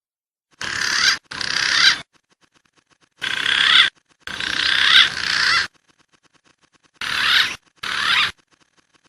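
Recorded wild pigeon calls played as a bird-trapping lure: six short bursts of calls with gliding pitch over a background hiss, each starting and stopping abruptly as if cut together.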